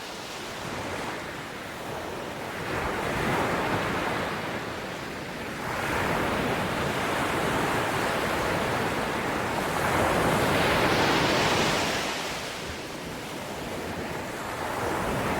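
Ocean waves breaking and washing on a shore, swelling and ebbing every few seconds, with the biggest surge about two-thirds of the way through.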